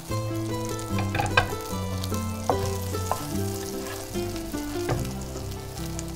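Potato cutlets sizzling in hot oil in a frying pan, with a few sharp clicks as a slotted spatula knocks against the pan while moving them; the loudest click comes about a second and a half in. Background music with held notes runs underneath.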